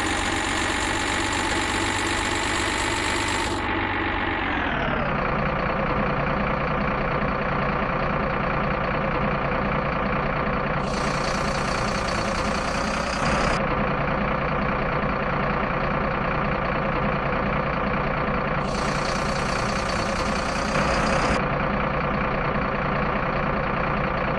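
Truck engine running fast, then slowing to idle about four seconds in and idling steadily for the rest of the time.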